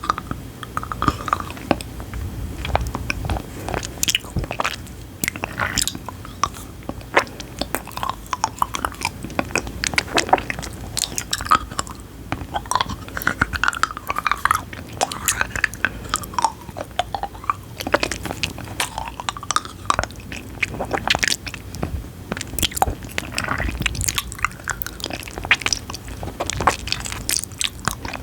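Close-miked chewing and biting of crisp food: dense, irregular crunches throughout.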